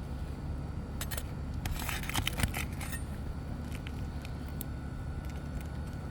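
Asphalt roof shingles and hand tools being handled: a few light clicks, then a short crackling scrape about two seconds in, over a steady low rumble.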